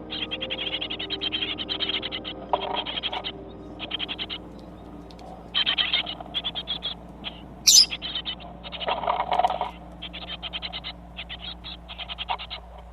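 Small pet parrot chattering in bursts of rapid clicking trills, with one sharp high chirp partway through.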